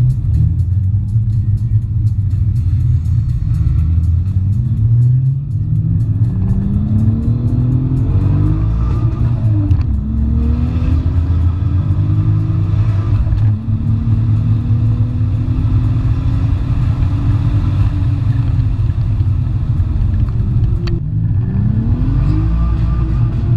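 Turbocharged Toyota 2JZ straight-six in a BMW E36 revving hard under acceleration, its pitch climbing and dropping off again several times as it pulls through the gears. Heavy-bass music plays along with it.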